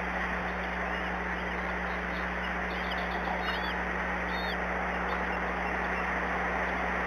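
Steady rushing noise with a low hum, and a few faint, short, high bird calls about halfway through.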